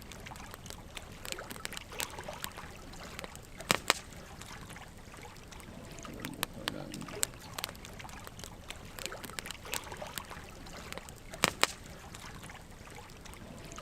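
Wood fire burning, logs crackling with irregular sharp pops over a low steady hiss. Two louder pops come about four seconds in and late on.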